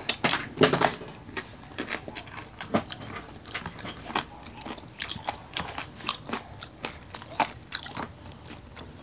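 Close-up biting and chewing of crispy fried food, with irregular crunches several times a second, the loudest in the first second.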